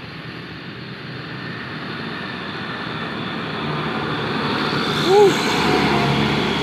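Truck engine and road noise growing steadily louder as the truck draws near, with a short shouted 'ush' about five seconds in.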